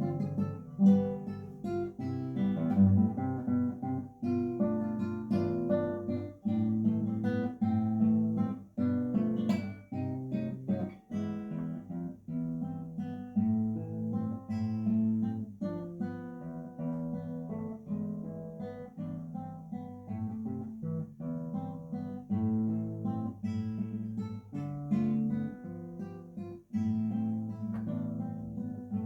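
Acoustic guitar playing, with plucked notes and strummed chords in a steady rhythm.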